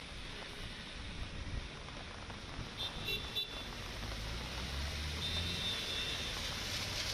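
Street ambience in heavy monsoon rain: a steady rushing noise of rain and wet traffic, with a low vehicle rumble building from about four seconds in. Brief high squeaks come about three seconds in and again around five seconds.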